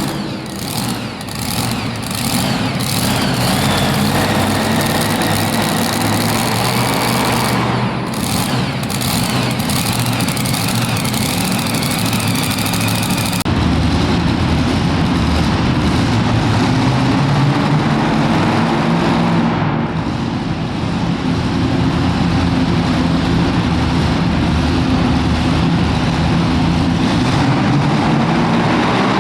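Super modified two-wheel-drive pulling truck's engine running loud and steady, with sharp crackles in the first few seconds and again about eight seconds in. The engine sound changes abruptly about halfway through.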